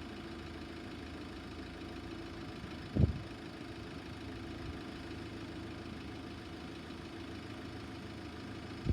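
Steady low hum of an idling vehicle, with a single dull thud about three seconds in.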